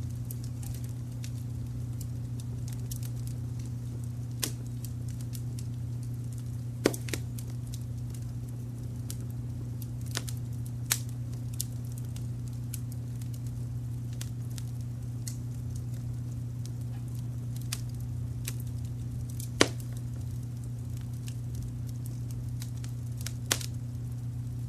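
Fireplace fire crackling, with scattered sharp pops, the loudest about seven seconds in and again near twenty seconds. Underneath is a steady low rumble of added brown noise.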